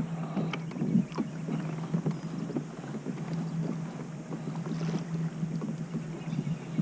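Water lapping and splashing against a kayak hull, with light irregular knocks and taps, over a steady low hum.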